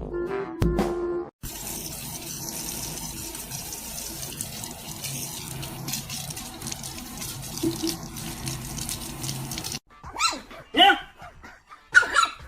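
Music stops abruptly about a second in, giving way to a steady rush of running water. Near the end an animal gives several short, loud cries that bend in pitch.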